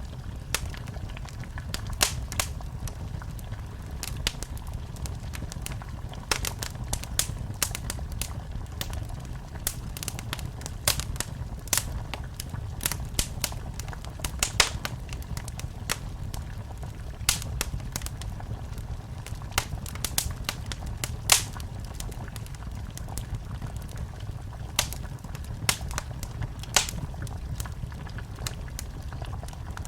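Wood fire in a fireplace crackling, with irregular sharp pops and snaps, a few louder than the rest, over a low steady rumble.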